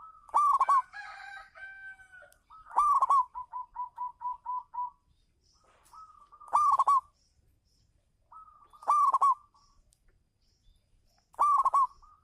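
Zebra dove (perkutut) cooing its song: five loud coos about two and a half seconds apart, the second followed by a quick run of short, even notes.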